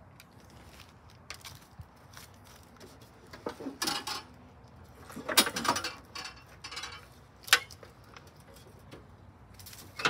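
A walk-behind gas lawn mower being tipped over by hand: its metal deck and handle clank, rattle and scrape in several separate knocks, the loudest about five and a half and seven and a half seconds in.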